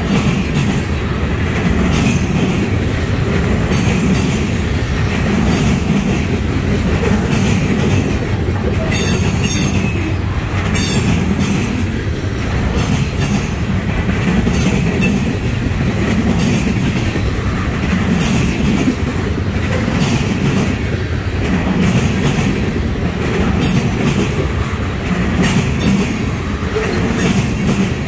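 Freight train of trash container cars rolling past close by: a steady rumble of steel wheels on rail, with a clatter about every two seconds as each car's wheel sets go by.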